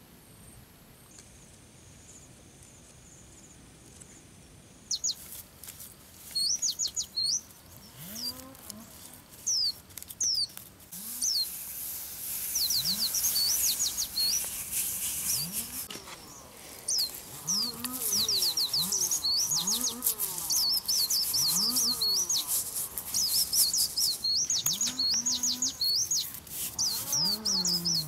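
Birds chirping with fast, high, repeated notes that start about five seconds in and carry on throughout. Short lower calls that rise and then fall in pitch come every second or two under the chirping.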